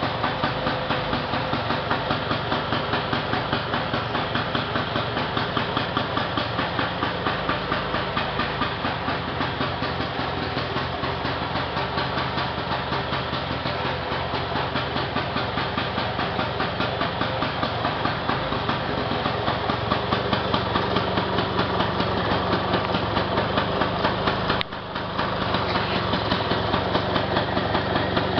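Freshly rebuilt Vespa PX 150 two-stroke single-cylinder engine running steadily with an even pulse, slightly louder in the last part, with a brief dropout about 25 seconds in.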